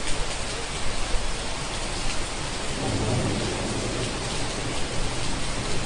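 Steady rain falling, with a low roll of thunder rumbling about three seconds in.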